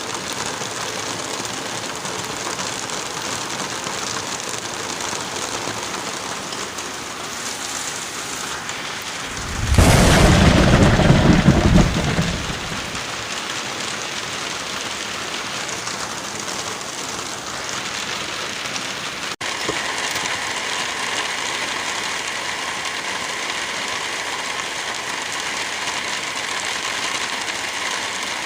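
Steady heavy rain with one loud thunderclap about a third of the way in, rumbling for about three seconds before fading back into the rain. About two-thirds of the way through, the rain's sound changes abruptly.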